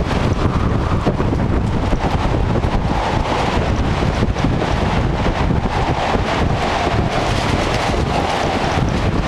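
Strong wind buffeting the microphone: a loud, continuous low rumble with quick irregular gusts.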